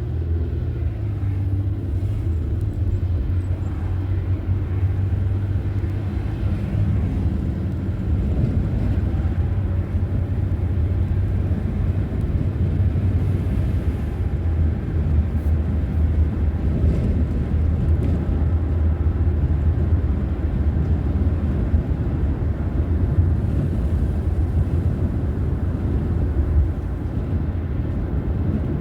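Steady low rumble of a car being driven: road and engine noise, even throughout.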